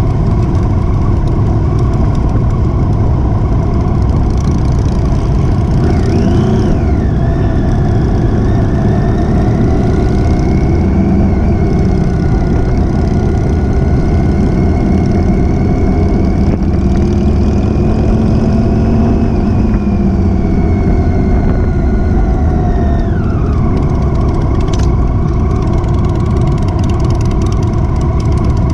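Motorcycle engine running under way over a dense low rumble. Its note climbs sharply about six seconds in, holds fairly steady, then falls away about five seconds before the end.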